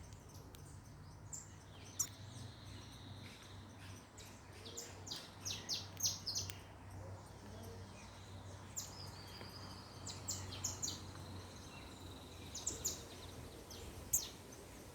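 Birds chirping: bursts of short, high chirps in clusters, with a thin, steady high whistle held for a second or two twice. There are two sharp ticks, about two seconds in and near the end.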